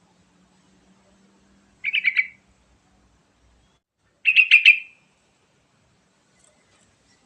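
Sooty-headed bulbul (trucukan) singing: two short bursts of quick repeated notes, about two seconds apart.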